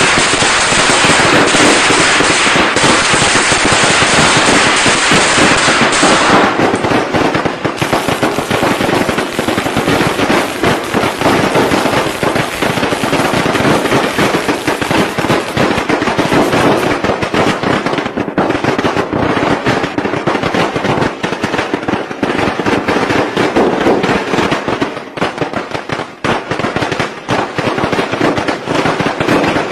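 Strings of firecrackers going off in dense, rapid, continuous volleys of bangs. The sound changes abruptly about six seconds in, to a crackle that is somewhat less bright.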